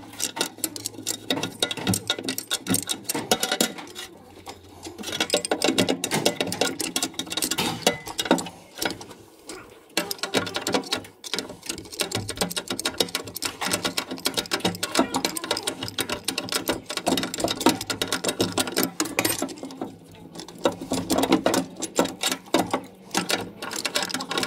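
Rapid, irregular metallic clicking and ticking of hand tools working on a tractor's gear-shift cover, with lulls around four, ten and twenty seconds in.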